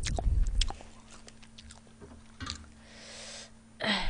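A person chewing a mouthful of spicy pork rib with melted cheese close to the microphone: wet mouth clicks and chewing, loudest in the first second, then fainter. Near the end comes a sharp, audible intake of breath.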